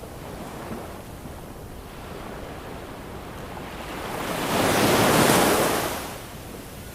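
Ocean waves: steady surf wash, with one wave breaking that swells to a loud crash at about the fifth second and fades away within a second or so.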